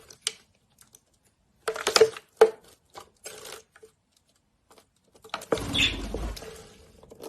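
Light clicks and taps in short clusters, then a stretch of rustling and handling noise about five and a half seconds in.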